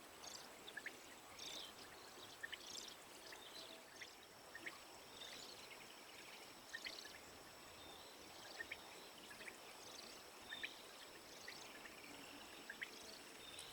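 Faint outdoor quiet with scattered light ticks, typical of the first drops of a light rain. A faint steady high tone joins about four seconds in.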